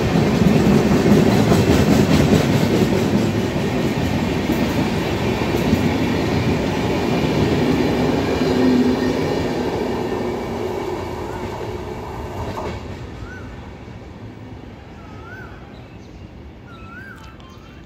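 Express passenger train of LHB coaches passing at speed along a station platform, its wheels clattering over the rail joints. The sound fades steadily from about halfway through as the last coach, a luggage-brake and generator car, goes by and the train draws away.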